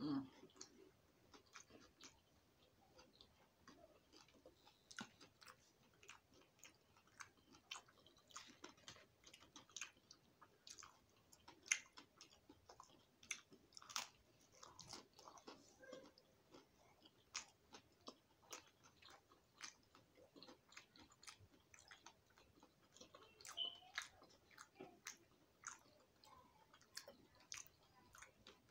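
Faint, close-up chewing and biting of breakfast food: many short, irregular crunches and wet mouth clicks.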